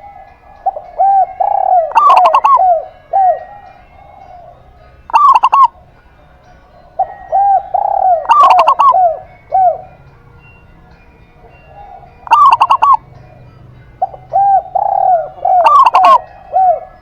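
A zebra dove (perkutut) and a spotted dove (derkuku) cooing in repeated phrases a few seconds apart, their calls often overlapping.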